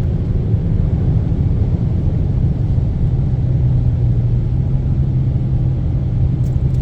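Motor vehicle running at a steady pace, giving a constant low drone with no change in pitch.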